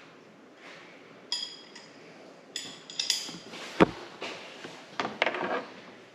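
Metal hand tools and hardware clinking and knocking on metal parts, several sharp ringing clinks with the heaviest knock a little before four seconds in.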